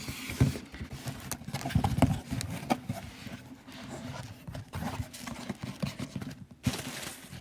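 Objects being handled close to the microphone: a busy, irregular run of clicks and knocks mixed with rustling, which starts abruptly.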